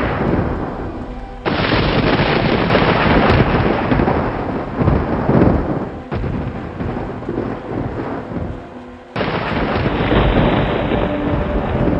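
Thunder rumbling over steady rain. Two sudden loud claps about a second and a half in and again near nine seconds, each rolling off over several seconds.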